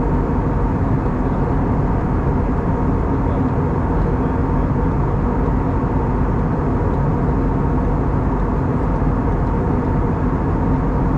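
Steady cabin noise of an Airbus A320neo in cruise: an even rush of airflow and engine drone from its CFM LEAP-1A turbofans, with a few faint steady hum tones underneath.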